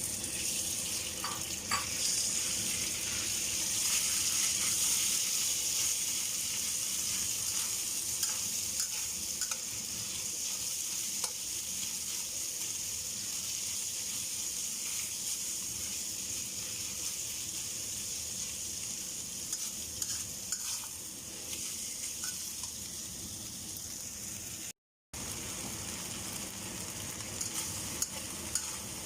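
Rice noodles sizzling as they fry in a pan, with a steady hiss that is loudest in the first few seconds and occasional small clicks of a utensil stirring. The sound cuts out for a moment near the end.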